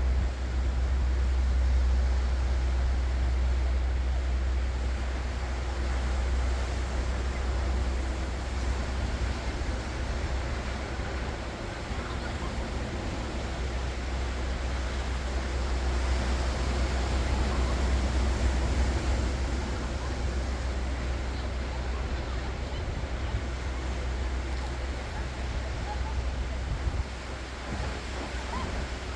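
Ocean waves breaking and washing ashore in slow swells, with wind rumbling on the microphone.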